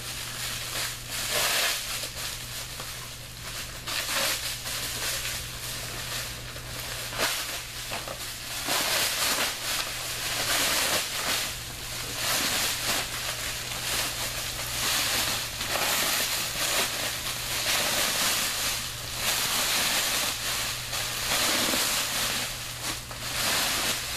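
Quilted plastic emergency blanket rustling and crinkling with irregular crackles as it is handled and unfolded out of its bag.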